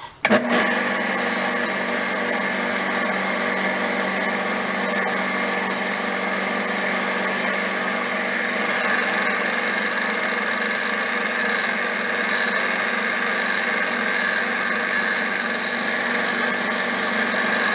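Belt grinder running steadily, a fish knife's curved edge rocked back and forth against the belt at an angle to grind and sharpen it. The noise starts about half a second in.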